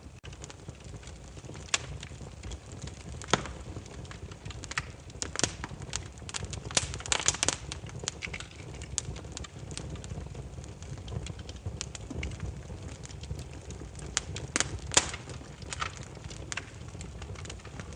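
Burning firewood crackling: irregular sharp snaps and pops over a low steady rumble of flame, with a quick cluster of pops about seven seconds in and one louder pop a few seconds before the end.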